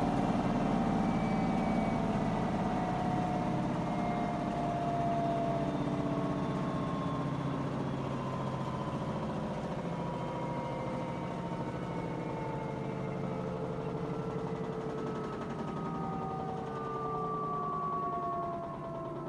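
Whirlpool front-load washer running in its spin cycle as the drum slows: a steady low hum under several whining tones that fall slowly in pitch, the whole sound gradually getting quieter. This is the noise the washer makes during spin and drain.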